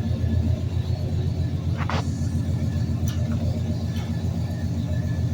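1971 Chevrolet Caprice's V8 idling with a steady, even, pulsing rumble just after a cold start; the owner calls it "chopping, not missing a lick, running great." A brief squeak about two seconds in.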